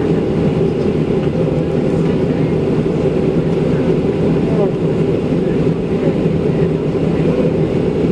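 Steady cabin noise of a Boeing 737-700 taxiing on the ground: its CFM56-7B engines running at idle with a constant low hum and air rush, heard from inside the passenger cabin.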